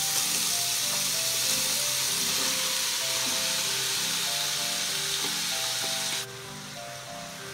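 Pork, carrots and shimeji mushrooms sizzling in a hot frying pan as they are stir-fried with chopsticks and bean sprouts are tipped in; the sizzle drops away suddenly about six seconds in. A light background tune plays throughout.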